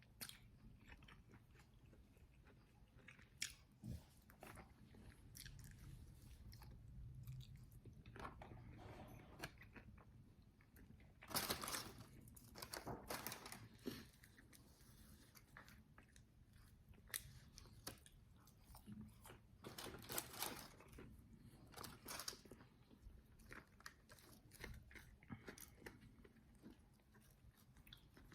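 Close-up biting and chewing of crispy, extra-well-done fried chicken wings: irregular crunches, loudest in a run of bites about halfway through and again a little later, with quieter chewing between.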